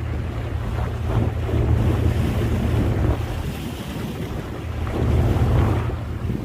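Wind buffeting the microphone aboard a moving tour boat, over a steady low rumble of the boat and water. The wind swells louder about two seconds in and again around five seconds.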